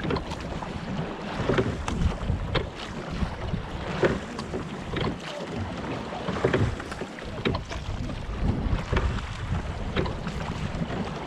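Water lapping and slapping against the wooden hull of a Cornish pilot gig lying at rest with its oars eased, with scattered light knocks. Wind buffets the microphone.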